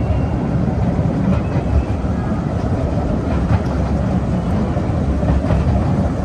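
A toy passenger train running along its track, with a steady low rumble of the train and its wheels on the rails and a few faint clicks.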